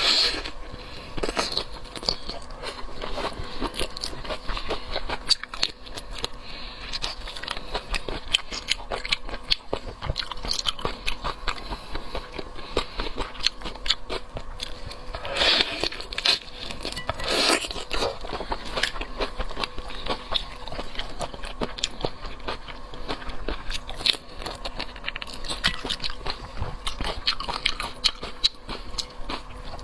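A person biting, crunching and chewing shrimp, with dense irregular crackles and clicks of shell and flesh. A couple of louder crunches come about halfway through.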